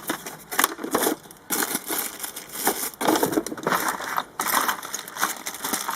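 Hands rummaging through a container of small electrical hardware such as wire nuts: a continuous run of irregular rattles, clicks and rustles.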